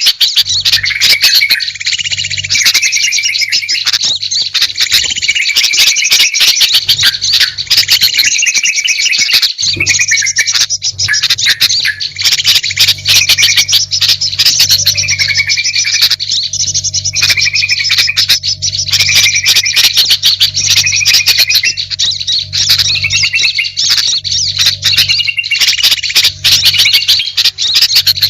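Bird-lure recording of small songbirds calling densely and without pause: a busy mix of chirps and squawks, with a steady low hum underneath.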